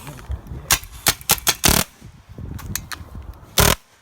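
Paintball gun firing a quick string of sharp pops about a second in, then one more near the end, over rumbling handling and wind noise on the microphone.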